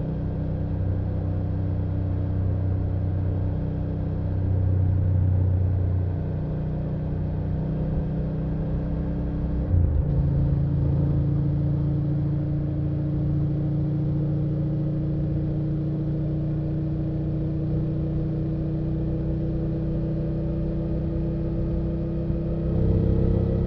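BMW F800GS parallel-twin engine and exhaust running under way at a steady pace. The note swells about four to six seconds in and breaks briefly about ten seconds in. It then holds a steady note and picks up again near the end.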